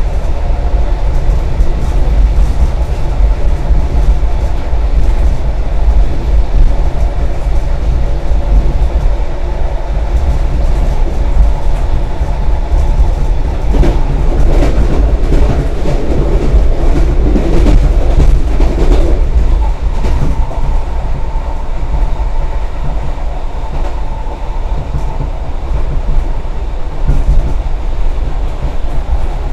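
Passenger train running, heard from inside the carriage: a steady, loud low rumble of the moving train, with a busier stretch of mid-pitched noise about halfway through.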